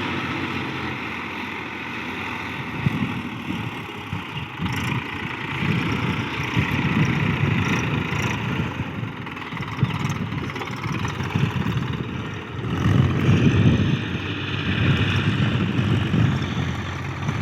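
Tractor engine running and working, its sound rising and falling with the load, loudest about two-thirds of the way through.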